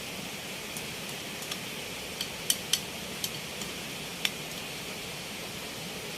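Several short, sharp clicks or taps, the loudest two close together near the middle, over a steady background hiss.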